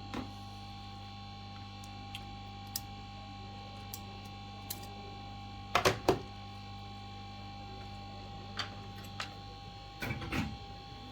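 Steady electrical hum with scattered light clicks and taps of handling on the workbench, with louder clusters of clicks about six seconds in and again near the end.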